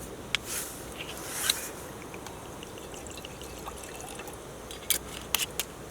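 Liquid trickling as a drink, likely Kuro Kirishima shochu, is poured into a cup. There are a few sharp clicks about a second in and again near the end.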